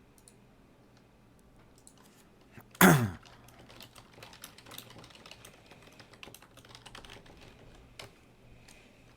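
Computer keyboard typing in short, uneven runs of clicks. About three seconds in, a single brief loud vocal sound falling in pitch, the loudest thing heard.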